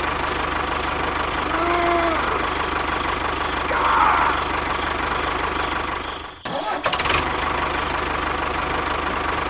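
A small engine running steadily with an even low pulse, broken off briefly about six seconds in before it carries on.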